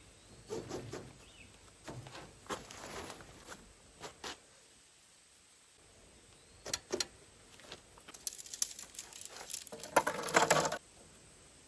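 Irregular clicks, knocks and rustling of things being handled, with a quiet pause midway, busier near the end, where the loudest crinkly rustle comes.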